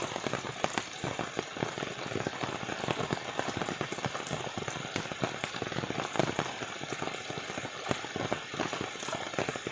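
Rain falling steadily: an even hiss dense with the small ticks and patters of drops striking.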